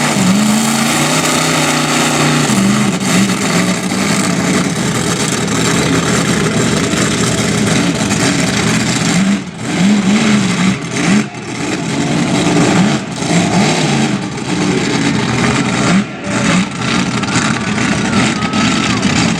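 Monster truck engine running hard and revving, its pitch wavering up and down, with several short throttle lifts in the second half.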